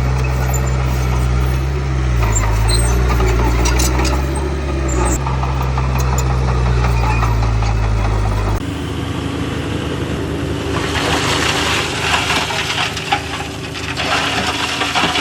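Heavy diesel engine of earthmoving machinery running steadily with a deep hum that dips briefly in pitch about two seconds in. Just past halfway the sound changes abruptly to a higher engine note with a rough rattling noise over it.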